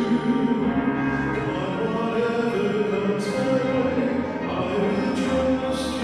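A worship song being sung over sustained instrumental accompaniment, with held, steady chords.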